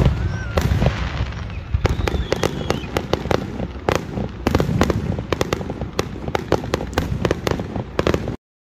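Fireworks display: a rapid run of sharp bangs and crackling reports, several a second, which stops suddenly near the end.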